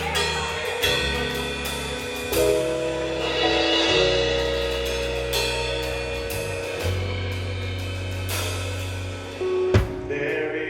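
Live gospel band playing an instrumental passage between vocals: changing bass notes and held keyboard chords over a drum kit with cymbal and hi-hat hits, and a sharp drum hit near the end.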